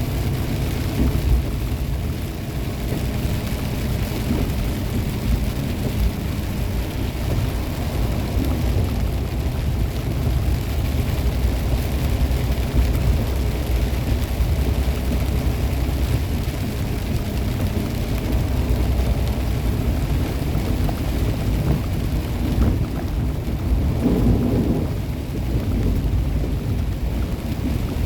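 Inside a semi-truck's cab while driving in rain: a steady low drone of the diesel engine and tyres on wet road, with an even hiss of rain over it. About four seconds from the end, a brief swell in the low rumble stands out.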